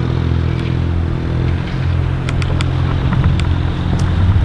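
A motor vehicle engine running steadily with a low, even hum, and a few light ticks over it.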